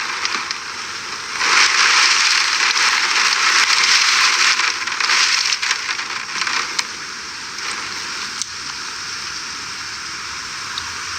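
Hurricane rain and wind: a steady, loud hiss with small crackles, swelling louder about a second and a half in and easing off after about six seconds.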